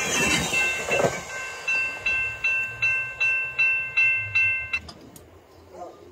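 GO Transit bilevel commuter coaches rushing past at speed for about the first second, then a level-crossing warning bell dinging about two and a half times a second. The bell stops abruptly about five seconds in.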